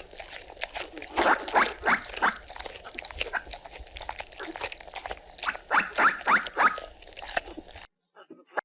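Animal calls: a quick run of short, high squeaks falling in pitch, mixed with small clicks, which cut off suddenly near the end.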